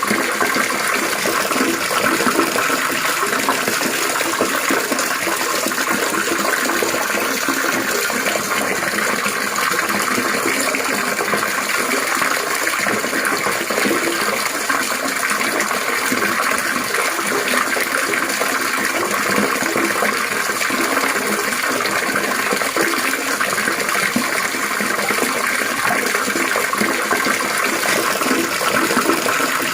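Steady trickling, splashing water running continuously and evenly.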